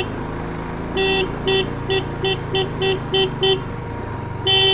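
Vehicle horn honking: one short honk about a second in, then a quick run of about eight short toots, then another honk near the end, over a steady engine hum.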